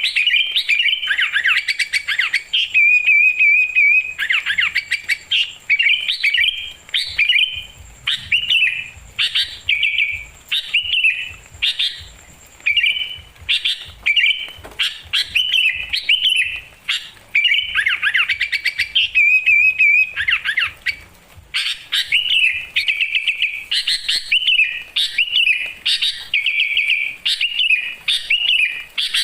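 Songbird singing: a dense run of quick chirps and short trills, with a longer warbling trill about three seconds in and again near twenty seconds.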